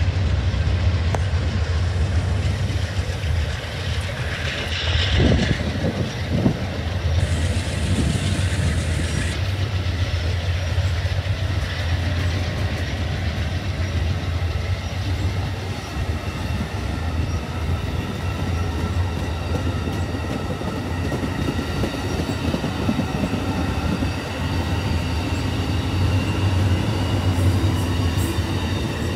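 Amtrak passenger train rolling past at close range: a steady low rumble with wheels clacking over the rail joints. A faint thin wheel squeal comes in over the second half.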